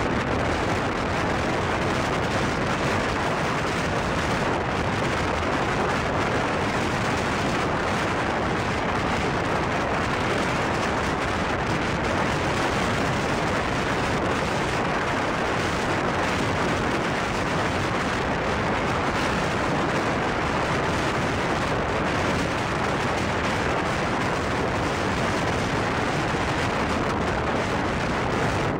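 Steady roar of an express passenger train running at about 115–120 km/h, heard from an open coach door: wheels rolling on the rails and wind rushing past, even throughout.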